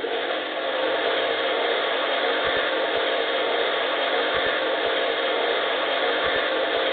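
Klein Hoover toy washing machine running dry, its small electric motor turning the drum with a steady whir and a few faint knocks.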